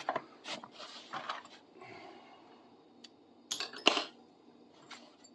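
Small metal hand tools and sockets clinking against each other as they are picked from a bucket and set down: a scatter of light clinks, with two louder ones between three and a half and four seconds in.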